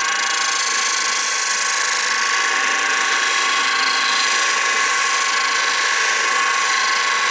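Wood lathe running at speed with a steady whine, and a continuous hiss as a gouge cuts the spinning wooden blank.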